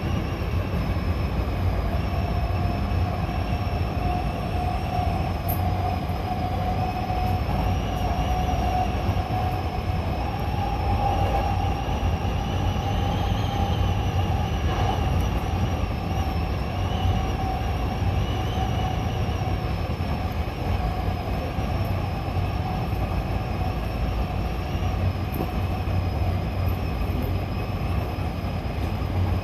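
Hankyu electric local train running between stations: a steady low rumble of wheels on track with a sustained high whine that wavers slightly in pitch.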